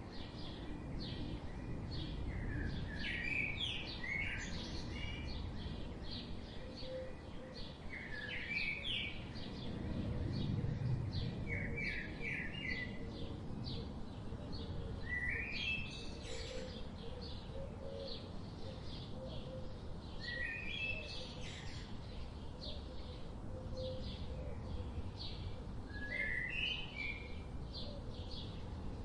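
Wild birdsong: one bird repeats a short phrase of quick, rising notes every few seconds, over many fainter high chirps and a steady low background rumble.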